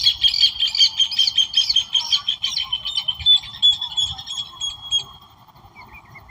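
A songbird singing loudly: a fast run of repeated bright notes that settles into a steady trill and fades out about five seconds in, over a steady background hiss.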